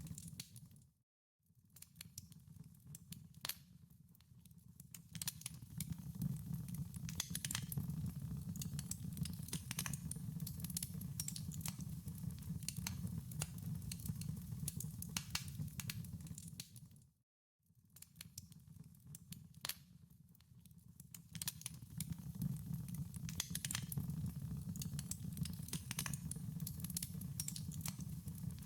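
Wood fire crackling in a fireplace: dense, irregular snaps and pops over a low steady rumble of the burning. The sound fades out to silence twice, about a second in and again at about 17 seconds, and fades back up each time.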